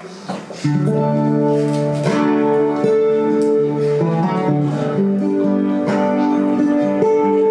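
Acoustic guitar playing chords at the opening of a song, coming in suddenly under a second in and changing chords about every second.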